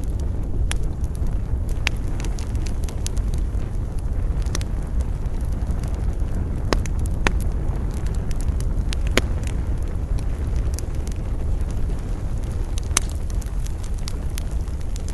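Campfire burning, with scattered sharp crackles and pops over a steady low rumble of wind.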